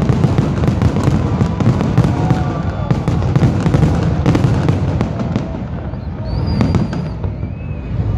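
Fireworks finale: many rapid, overlapping bangs over a continuous low rumble, thinning out a little and easing in loudness over the last couple of seconds.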